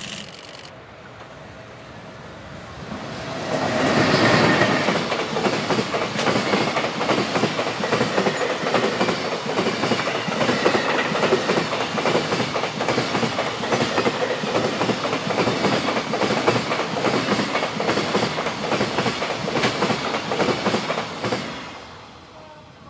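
An EH500 electric freight locomotive and its long train of container wagons passing through a station without stopping: the sound swells as the locomotive comes past, loudest about four seconds in, then the wagon wheels clatter steadily over the rail joints for about seventeen seconds and fade away near the end.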